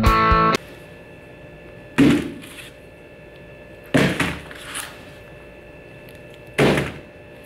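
Guitar music cuts off just after the start. Then come three separate short thuds, about two seconds apart, over a faint steady hum.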